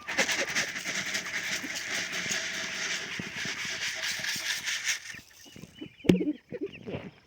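A steady rustling hiss for about five seconds gives way to chickens clucking, with a sharp knock about six seconds in and a few lighter knocks.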